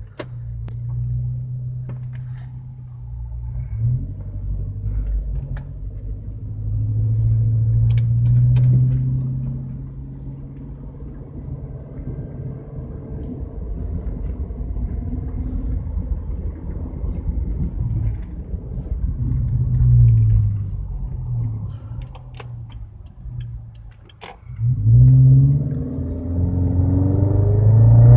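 Subaru XV's 2.0-litre flat-four boxer engine rumbling through an aftermarket HKS dual exhaust as the car drives. The exhaust note swells a few times, falls away briefly near the end, then comes back loud with a rising pitch as the car accelerates hard in a pickup test.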